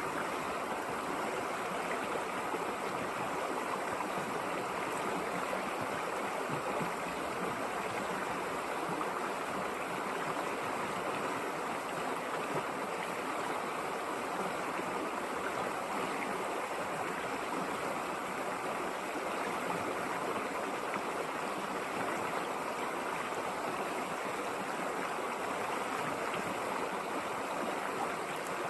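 River water flowing: a steady, even rush of stream noise that does not change.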